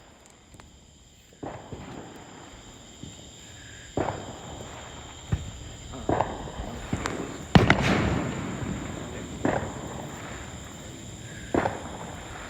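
Fireworks going off: about six sharp bangs spread over several seconds, the loudest a little past the middle, followed by a brief crackling tail.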